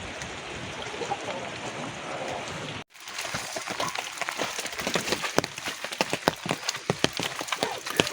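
Rain falling on a hard surface, heard as many quick, irregular taps of individual drops, after a sudden cut about three seconds in. Before the cut there is a steady, even rush of noise.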